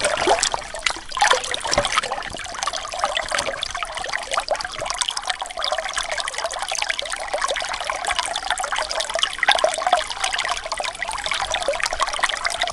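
Water trickling and babbling steadily, like a small mountain stream.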